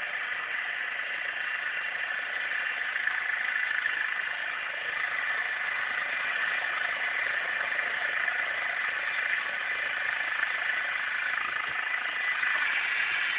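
Eurocopter EC135 helicopter in flight: a steady whine-and-rush of its turbine engines and rotor that holds without change.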